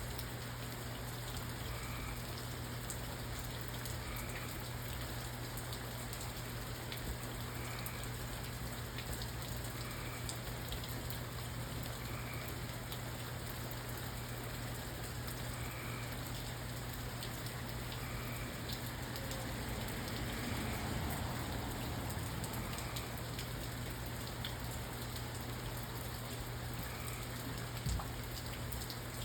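Steady rain falling on a surface, with a low steady hum beneath it and a faint soft note repeating about every two seconds. A single sharp tick comes near the end.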